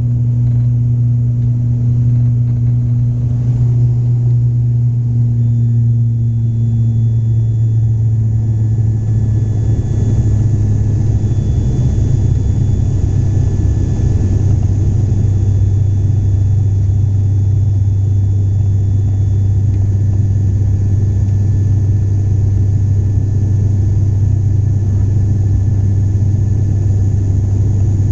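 Airliner engines droning steadily, heard from inside the passenger cabin, with a faint steady high whine above the drone. About ten seconds in, the drone drops slightly in pitch and a rushing noise grows.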